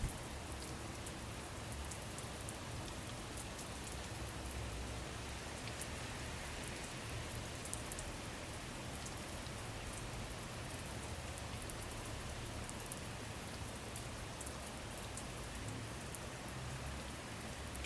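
Steady rain falling, an even hiss with scattered faint drop ticks, as an ambient sleep-sound bed.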